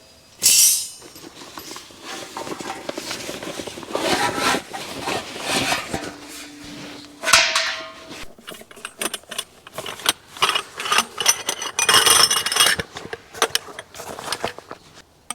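Objects being handled by hand: a run of irregular knocks, scrapes and light clinks, with a louder burst about seven seconds in and a short low hum just before it.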